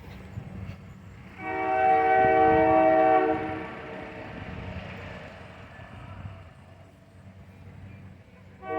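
Locomotive air horn sounding one long chord of several notes for about two seconds, then dying away over a few seconds; another blast starts right at the end. A low steady rumble runs underneath.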